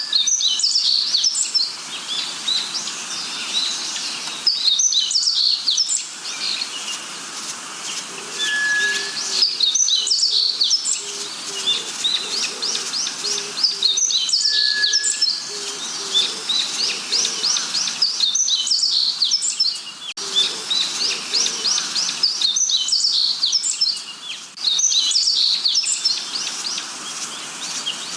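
Birds singing: a rapid series of high chirps and trills that repeats about every four and a half seconds, with a short pure whistled note every several seconds.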